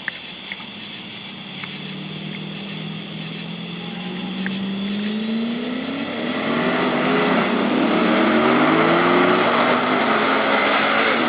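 V8 engines of a turbocharged Ford Lightning pickup and a nitrous-fed WS6 in a drag race, accelerating hard from a launch. The engine notes climb in pitch in repeated sweeps through the gears and grow steadily louder as the cars come closer.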